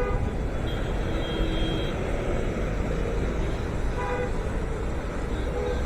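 Steady road traffic noise, with short car horn toots at the start, about four seconds in, and again near the end.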